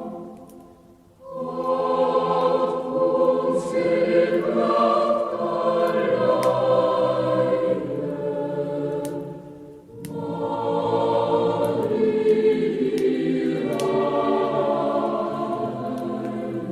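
Choir singing a Christmas song in long phrases, with breaks about a second in and again near ten seconds. Faint crackling clicks sound throughout.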